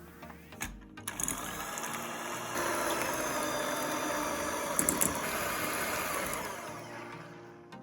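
Electric mixer running steadily, beating eggs with sugar; it starts about a second in and dies away near the end.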